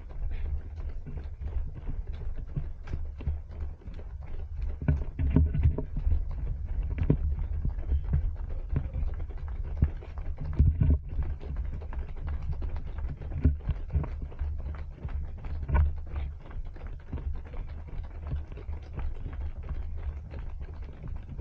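Running footsteps in a quick, even rhythm of a few steps a second, with low rumbling buffeting from wind and movement on a body-worn action camera's microphone.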